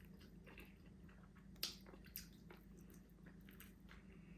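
A person chewing a mouthful of stir-fried quail, quiet wet mouth clicks and smacks, the clearest about a second and a half in.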